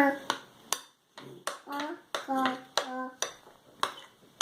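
Plaster of Paris being stirred with water in a mixing container: the stirrer knocks the container with a sharp click about twice a second. Three short vocal sounds from a child come in the middle.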